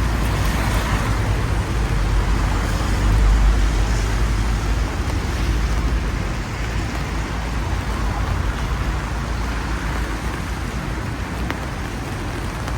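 Rainy street ambience: a steady hiss of rain and tyres on a wet road, swelling as a vehicle passes about three seconds in, over a low rumble.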